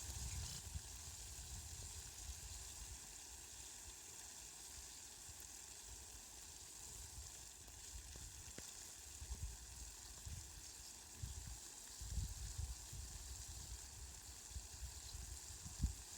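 Steady hiss of falling rain, brightest in its upper range, with low rumbles that come and go, strongest near the start and again in the last few seconds.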